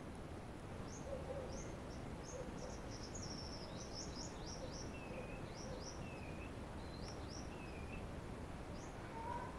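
Bird chirping: a run of short, high, quick downward chirps, densest three to four seconds in, with a few lower whistled notes between them, over a steady low background noise.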